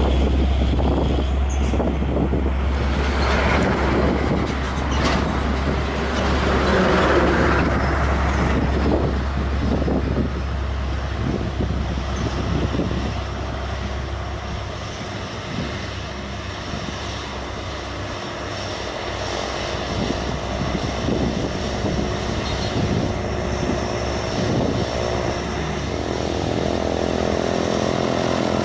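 Heavy truck engine working under load on a steep climb, with a deep rumble that eases about halfway through.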